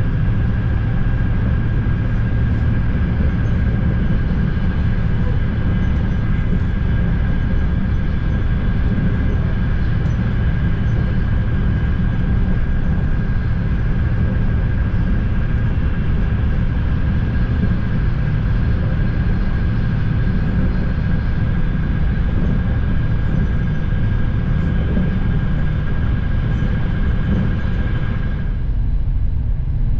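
Frecciarossa ETR 500 high-speed train running, heard from inside the passenger coach: a steady low rumble with a thin, high steady whine over it. Near the end the whine cuts off and the sound turns duller.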